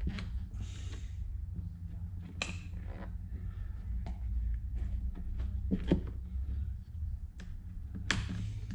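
Scattered clicks and knocks of tools and parts being handled, the sharpest about six seconds in and another near the end, over a steady low hum.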